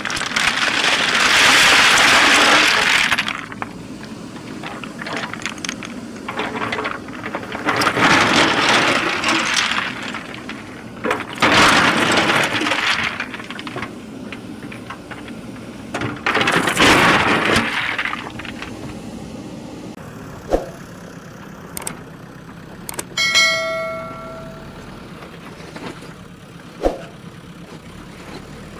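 JCB 3DX backhoe loader's diesel engine running steadily, with four long bursts of clattering, rattling loose material, heard as the bucket works. A few sharp knocks and one ringing metallic clang come in the last third.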